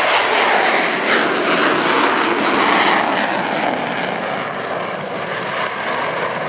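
CF-18 Hornet fighter jet flying its display, its twin jet engines making a loud, steady rush of noise that eases slightly after about three seconds.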